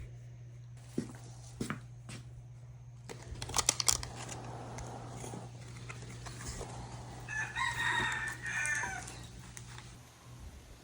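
A rooster crows once, about seven seconds in, over a steady low hum. A cluster of sharp clicks or knocks about three and a half seconds in is the loudest moment, with a few single clicks before it.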